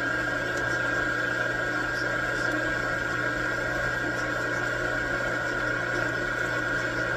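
Metal lathe running steadily while a carbide insert turns a steel stud, with a steady high tone from the cut over the machine's hum. The insert is getting dull and rubbing, leaving shiny lines on the part.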